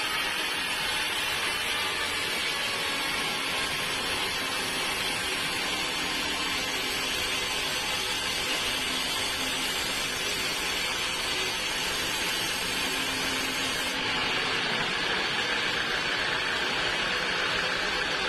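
Sawmill machinery running steadily, a dense mechanical noise. About fourteen seconds in the hiss lessens and a steady whine comes in.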